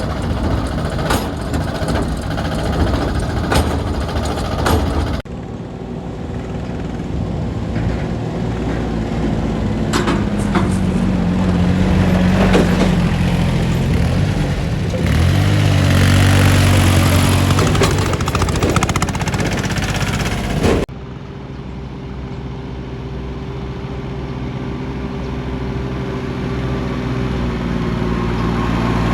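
Mini tractor diesel engines running in three spliced clips, with sudden cuts about five seconds in and again about twenty-one seconds in. The first clip has repeated knocks over the engine. In the middle clip the engine note climbs and grows louder for a few seconds before it cuts.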